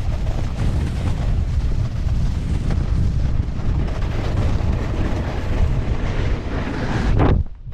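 Wind buffeting a helmet-mounted action camera's microphone, a heavy rumble mixed with the scrape of a snowboard riding over snow, which drops away sharply near the end.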